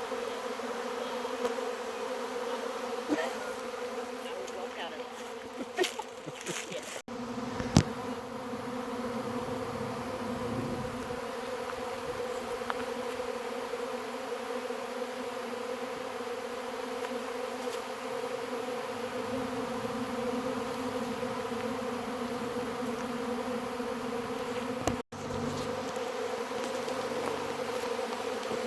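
Honey bee swarm in flight: a steady, loud hum of thousands of wingbeats, with a few light knocks in the first several seconds. The swarm has just boiled out of an agitated hive.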